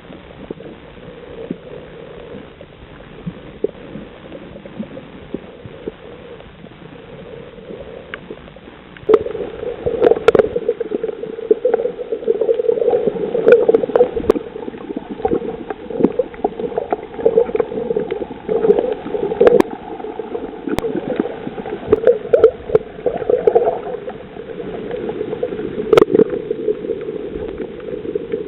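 Underwater sound on a coral reef, as picked up by a camera: a steady muffled hum with scattered clicks and crackles throughout, which jumps much louder about nine seconds in and stays loud, with a few sharper clicks.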